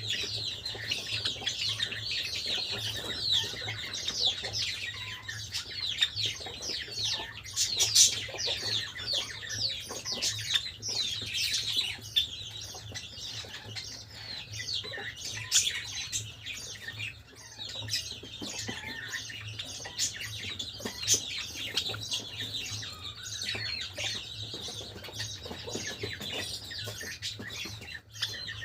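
Several Java sparrows chirping and chattering, many short high chirps overlapping without a break.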